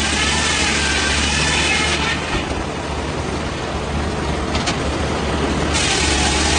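Engine-driven saw cutting through a large log: a steady engine hum under the harsh noise of the cut. The cutting noise falls away about two seconds in, leaving the engine running with a single short click, then comes back near the end.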